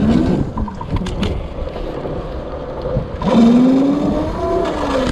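Razor MX350 electric mini dirt bike's chain-driven motor whining as it is ridden. The pitch rises at the start, dips, then climbs sharply a little past the middle and slowly falls off toward the end as the bike speeds up and then slows.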